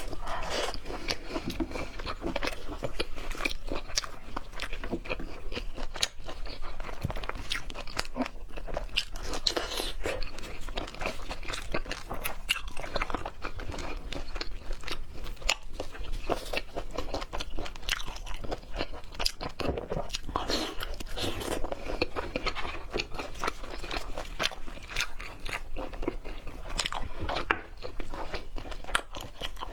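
A person chewing and biting into raw seafood, with many quick, irregular crunching clicks throughout.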